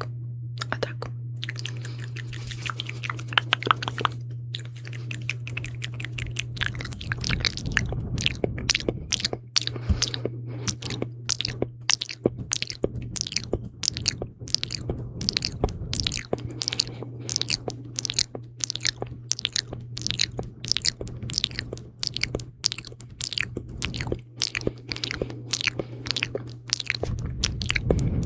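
Close-miked ASMR mouth sounds: wet, sticky clicks and smacks of lips and tongue, several a second. A steady low hum runs underneath and stops near the end.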